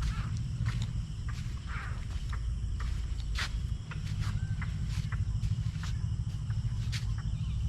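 Outdoor ambience with scattered short bird chirps and sharp clicks over a steady low rumble.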